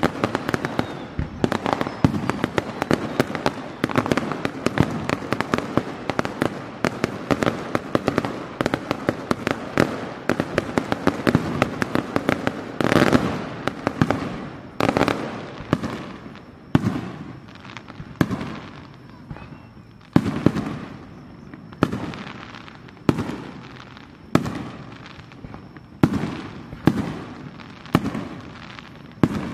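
Aerial firework shells bursting. For about the first half the bursts come thick and fast with crackling; after that, separate booms come roughly every one to two seconds, each trailing away.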